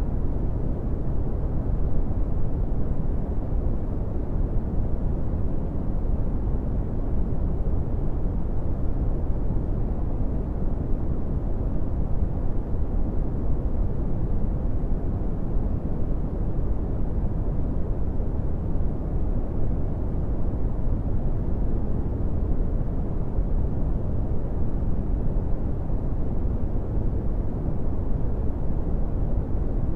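Brown noise: a steady, deep rushing hiss, strongest in the lows and dark in the highs, without change.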